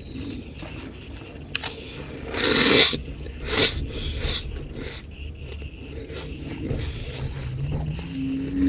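Freezer frost being scraped up and bitten: a loud crunchy rasp about two and a half seconds in and a shorter one about a second later, among quieter clicks. A low steady hum starts near the end.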